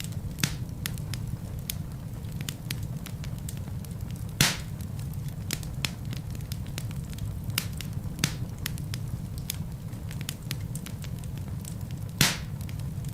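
Wood fire burning in a fireplace: a steady low rumble with constant crackling, and two louder pops from the burning logs, one about four seconds in and one near the end.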